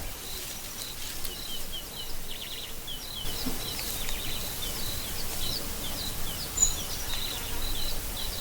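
Night-time crickets trilling steadily and high, with a string of short falling chirps repeating over the trill.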